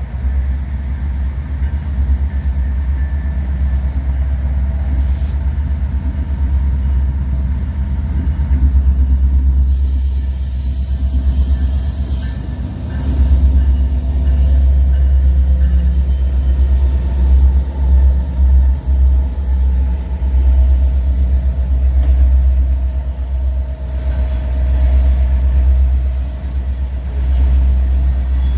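BNSF coal train rolling past, a steady deep rumble that swells and eases.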